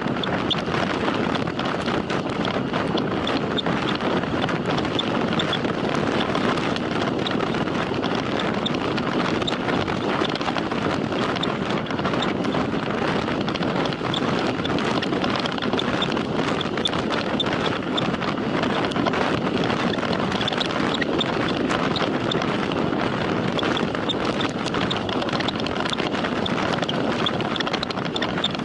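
Steady rush of wind over the microphone of a camera riding on a bicycle at speed during a time trial, with faint high ticking running through it.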